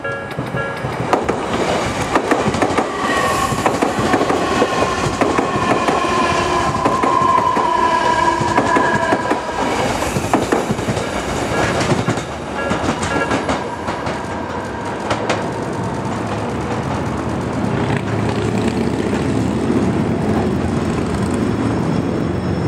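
Odakyu Romancecar electric trains running through the station at close range, with dense clattering of wheels over the rails throughout. A high tone sounds through the first half and slides slightly lower in pitch.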